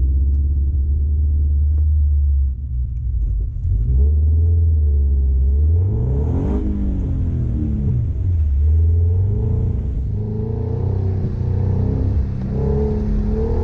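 Subaru BRZ's flat-four boxer engine heard from inside the cabin, revving up and down as the car is driven on course. Its pitch climbs to a peak about six and a half seconds in and falls away, with further smaller rises near the end, over a steady low rumble.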